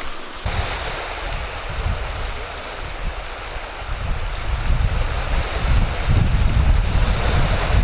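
Wind blowing across the microphone, a steady hiss with low buffeting rumble that grows stronger from about six seconds in.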